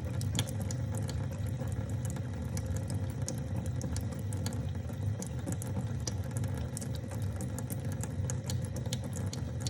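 Cat water fountain running: a steady trickle of water over a low hum, with scattered drip-like ticks.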